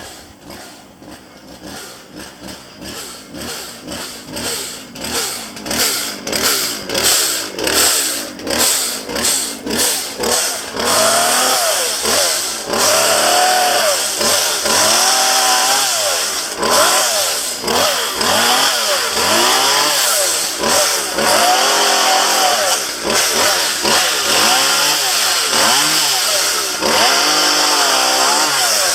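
Chainsaw running: quieter and pulsing at first, then from about a third of the way in held at high revs, its pitch sagging and recovering over and over as it works under load cutting downed branches.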